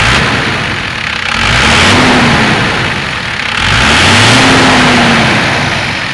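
A 1993 Cummins 5.9 turbo diesel is revved twice from idle. Each time the engine note rises, holds for about a second, then drops back, with loud turbo and exhaust rush at the top of each rev.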